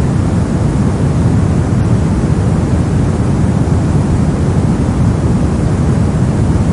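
Continuous soft noise of the kind played for sleep and study: a deep, even hiss with most of its weight in the low end, holding steady without any change.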